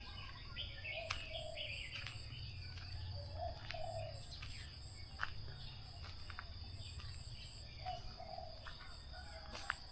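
Dawn chorus of birds: several birds giving short repeated chirps and sharp calls, over a steady high buzz of insects and a faint low hum.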